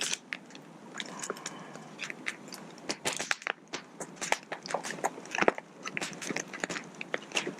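Campfire crackling, with many irregular sharp snaps and pops.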